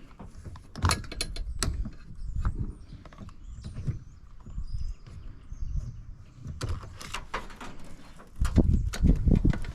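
Irregular clicks, clanks and knocks of hand tools and metal parts being worked while an appliance is broken down for scrap, with a denser, louder clatter and rumble starting about eight and a half seconds in.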